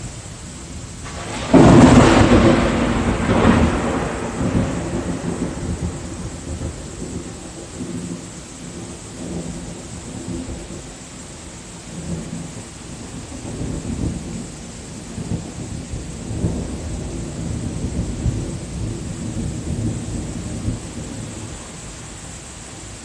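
Thunder: a sudden loud crack about a second and a half in, then a long rolling rumble that swells and fades repeatedly and keeps going.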